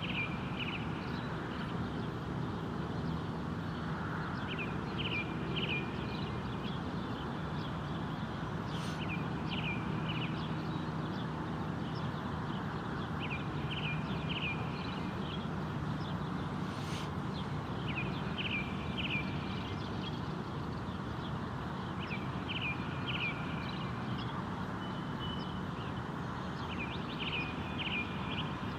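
Bird calling in short phrases of two to four quick notes, repeated every few seconds, over a steady low rushing background noise.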